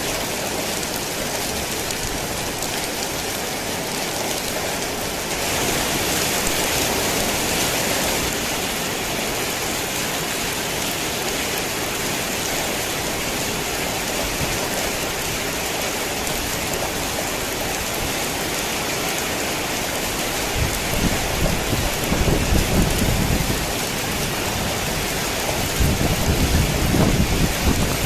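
Heavy rain falling steadily, a dense even hiss. Low rolls of thunder rumble twice in the second half, the second running into the end.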